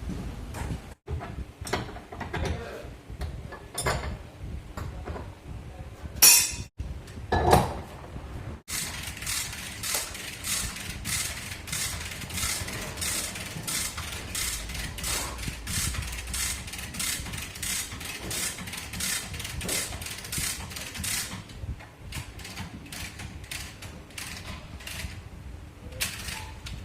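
Workshop hand-tool noise: scattered knocks and scrapes, two louder hits, then a run of quick, even strokes lasting about twelve seconds, then sparser knocks.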